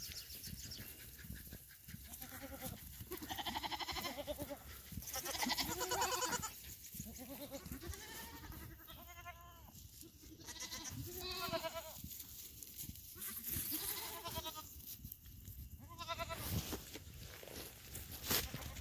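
Goats bleating over and over, a string of wavering, quavering calls, some overlapping, each a second or two long.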